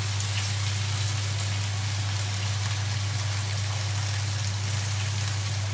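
Chicken legs sizzling and crackling steadily in a pan, frying in the fat rendered out of the chicken itself with no oil added. A steady low hum runs underneath.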